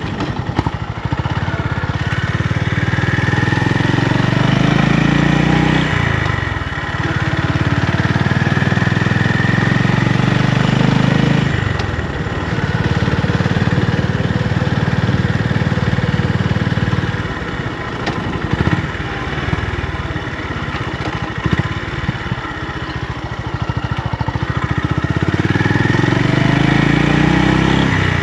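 Honda GB350's single-cylinder engine running. Its sound drops away and picks up again about every five or six seconds.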